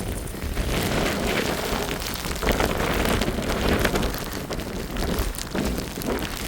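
Blizzard wind buffeting the microphone, with a dense pattering of wind-driven snow striking it.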